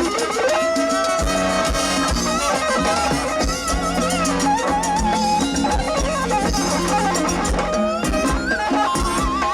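Live band playing an instrumental passage: a wavering, vibrato-laden melody line over a bass line and steady drum beats.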